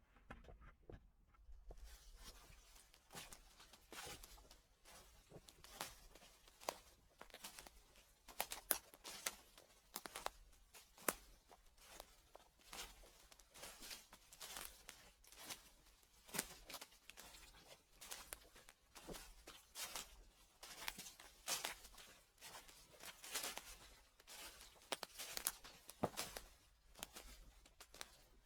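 Footsteps crunching and crackling through dry fallen leaves at a steady walking pace, about a step a second, starting after a brief hush near the beginning.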